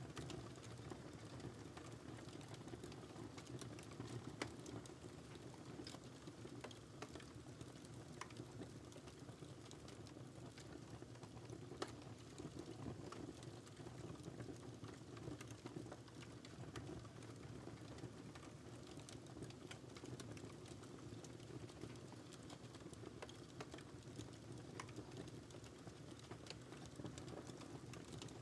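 Wood fire crackling quietly in a fireplace: a steady low rumble of flame with scattered sharp pops and snaps at irregular intervals.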